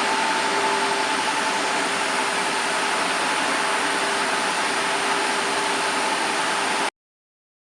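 A Stepmores 1218 ATC CNC router running: a steady mechanical whir with two steady whining tones. The sound stops abruptly about seven seconds in.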